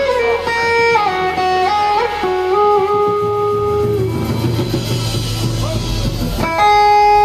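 Live blues-rock band music: an electric guitar plays a slow, sustained melody whose notes slide from pitch to pitch, over quiet bass and band backing.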